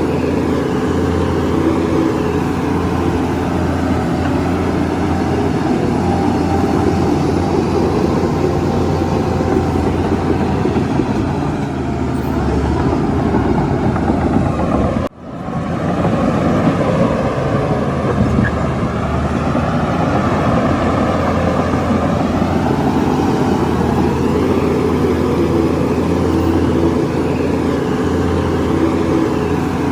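Heavy diesel engine of a crawler bulldozer running steadily under load, its pitch rising and falling slowly as it works. About halfway through the sound cuts out for an instant and resumes.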